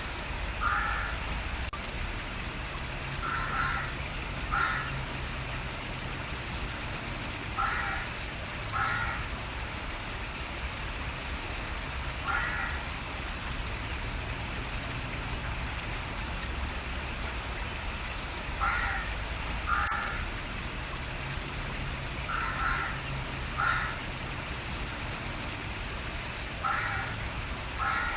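A bird giving short calls, mostly in pairs about a second apart and repeated every few seconds with a pause midway, over the steady rush of running water.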